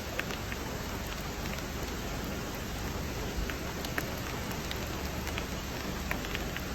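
Steady rain falling, with separate drops ticking sharply on a nearby surface every second or so.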